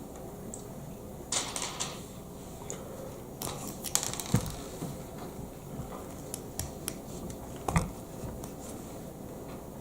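Plastic Lego Technic pieces clicking and clattering as they are handled and fitted together, in a few short bursts of sharp clicks with quieter gaps between.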